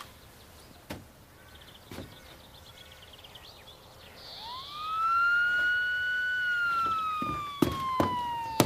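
Police car siren. A single wail winds up about four seconds in, holds a high note, then slowly falls in pitch. Several sharp knocks are heard near the end.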